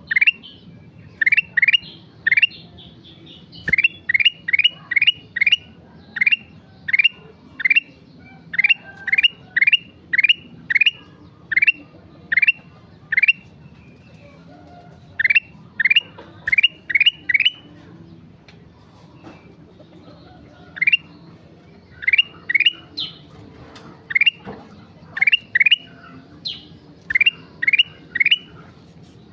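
A kutilang emas bulbul singing steadily, repeating short, sharply rising whistled notes in quick runs of three to six, with brief pauses between runs.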